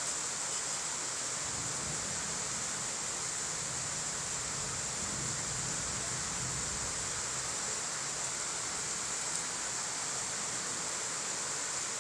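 Steady rain falling, an even hiss that doesn't change in level.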